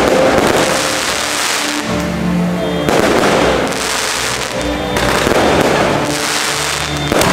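Aerial fireworks shells bursting overhead, a new burst about every two seconds, each followed by a second or two of crackling from the gold crackling stars.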